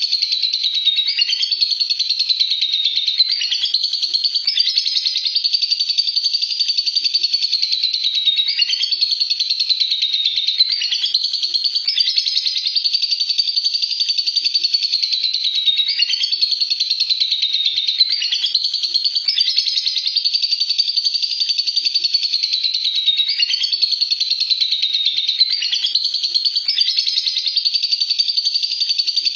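Lovebird singing its long unbroken 'ngekek' chatter: a fast, buzzing high-pitched trill that never pauses, dipping briefly in pitch every two to three seconds.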